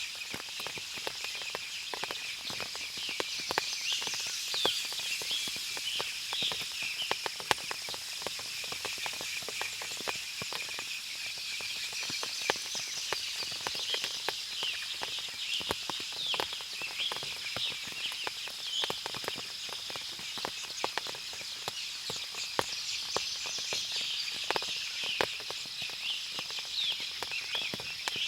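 Forest after rain: many short bird chirps over a steady, high insect drone, with frequent small ticks of water dripping from the trees.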